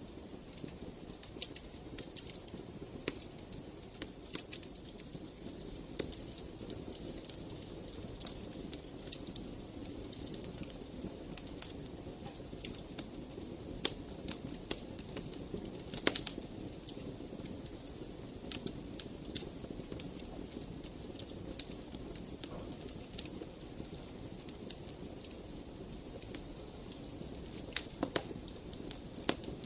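Wood fire in a fireplace crackling, with a steady low rumble and frequent irregular snaps and pops, a few of them louder.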